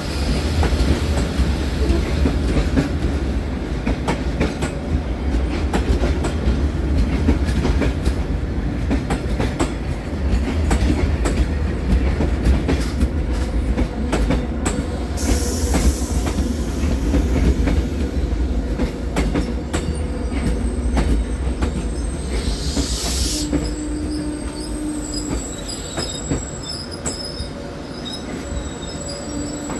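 Train running on the rails: a steady low rumble with rapid wheel clatter and some wheel squeal. Two short bursts of hiss come about halfway and about three-quarters through, and the rumble eases slightly near the end.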